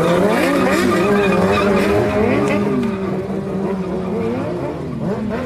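Several motorcycle engines revving up and down together, their pitches rising and falling over one another.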